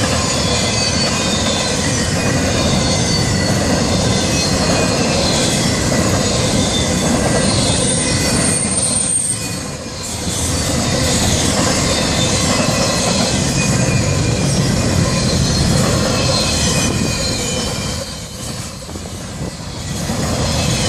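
Florida East Coast Railway freight cars rolling past, with steady wheel-and-rail noise and high-pitched wheel squeal. The noise dips briefly twice, about halfway through and near the end.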